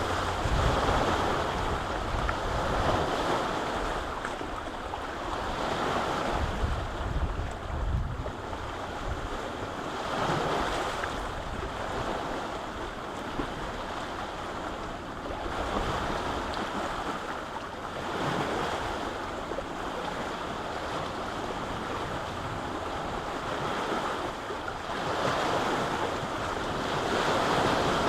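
Lake waves washing ashore, swelling and breaking every few seconds, with wind buffeting the microphone.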